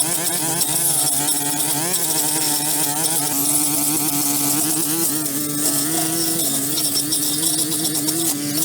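A small engine running steadily, its pitch wavering slightly, with a constant high hiss over it.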